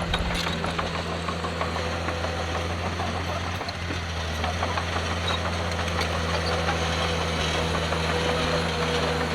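Diesel engine of a Komatsu D51PX bulldozer running steadily at an even pitch, with scattered clicks and crackles over it.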